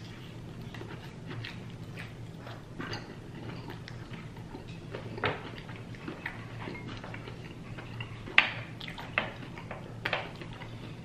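Eating sounds close to the microphone: chewing and mouth smacks with scattered sharp clicks, the loudest about three-quarters of the way through, over a faint steady hum.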